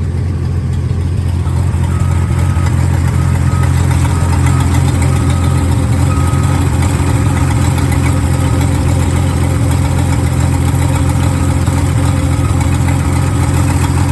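1960 Ford F100 engine idling steadily just after a cold start.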